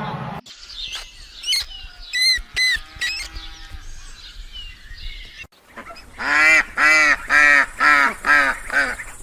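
A bird honking in a fast series of about eight loud calls in the second half. Before that come a few short, high-pitched chirping calls.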